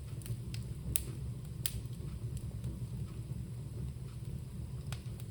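Fire burning in a home fireplace, crackling with a handful of sharp pops over a steady low rumble.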